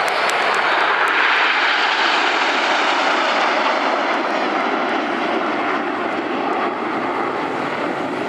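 Formation of BAE Hawk T1 jets, Adour turbofans, passing overhead in a steady jet rush. It swells to its loudest about a second in, then eases off slightly.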